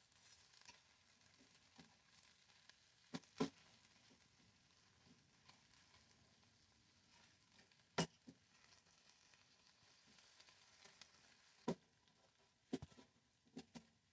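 Air-fried chicken wings sizzling faintly in the basket as they are turned over, with several sharp clicks and knocks, the loudest about eight seconds in.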